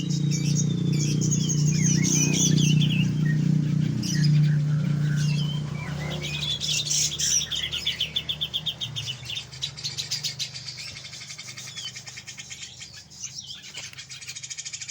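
Grey-cheeked bulbul (cucak jenggot) singing: whistled phrases gliding up and down, turning about six seconds in into a fast, rapid-fire chattering run. A steady low hum sits underneath, louder in the first half.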